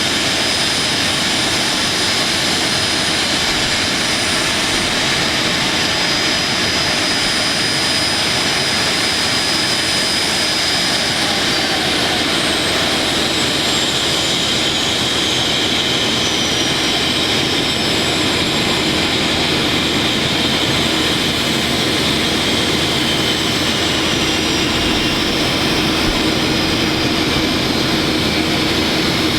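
CRJ regional jet's turbofan engines running at taxi power, a steady loud rush with a high whine. About ten seconds in, the whine starts to glide slowly down in pitch.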